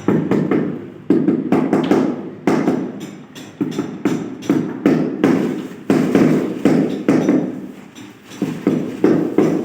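Rubber mallet tapping a large floor tile down into its mortar bed: a run of dull knocks at about two a second, slightly uneven.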